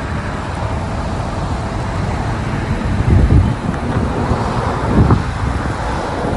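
Road noise and wind rumble from a moving car, with two stronger wind gusts hitting the microphone about three and five seconds in.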